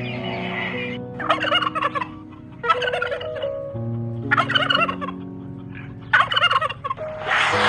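A bird calling in four short bursts of fast, wavering notes, over background music with long held notes.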